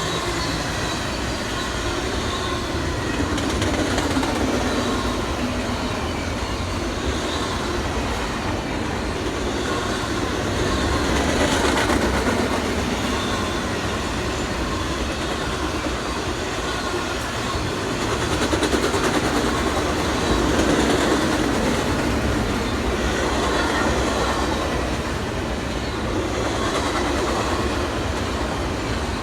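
A train's railroad cars rolling steadily past, wheels clattering over the rails, the noise swelling and easing several times as cars go by.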